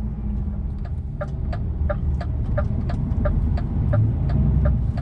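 Inside a lorry cab, the diesel engine runs with a steady low rumble while the turn indicator ticks evenly, about three times a second.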